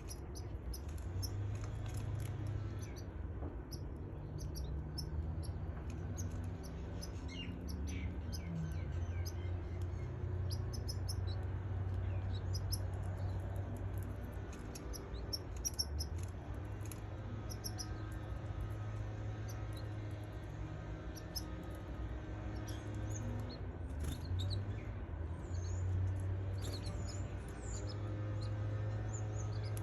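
Baby canaries chirping: many short, high, squeaky peeps scattered throughout, over a steady low hum.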